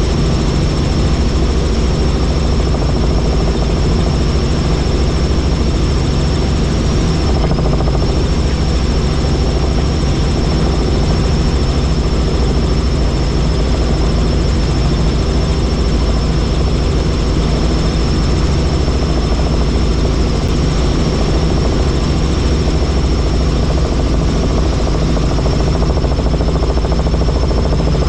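Helicopter running steadily: the heavy low rotor and engine drone, with a constant high-pitched turbine whine over it.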